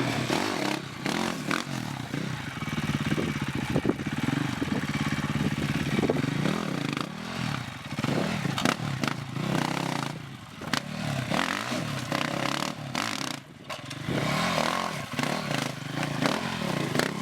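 Dirt bike engine revving, its pitch rising and falling over and over as it is ridden, with scattered knocks and clatter.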